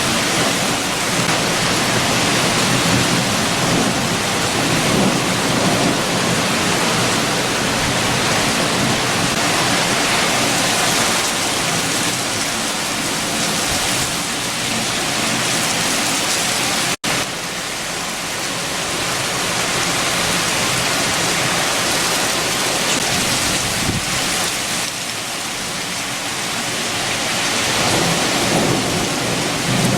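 Heavy rain with strong wind, a steady loud hiss over a low rumble that swells and eases. The sound drops out for an instant just past halfway.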